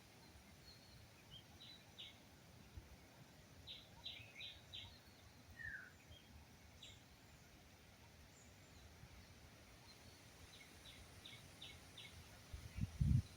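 A bird calling: short high chirps in quick runs of three to five, with a single falling note in between. Low thumps come near the end.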